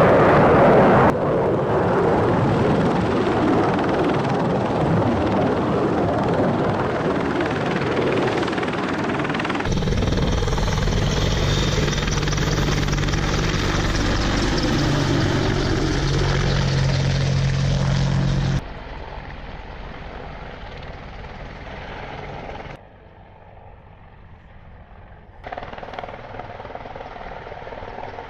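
Apache attack helicopter rotor and engine noise across several spliced clips, the sound changing abruptly at each cut. A loud, noisy stretch comes first, then a steadier stretch with a low hum, then quieter passages for the last third.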